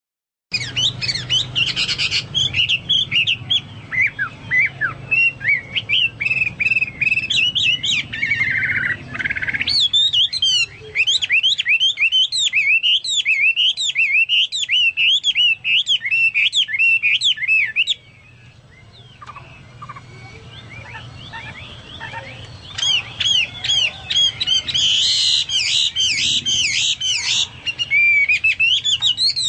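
Hwamei singing vigorously, in fast runs of rising and falling whistled notes. Its song is in the style of a cucak Papua or cucak mas. The song drops away for about four seconds past the middle, then resumes.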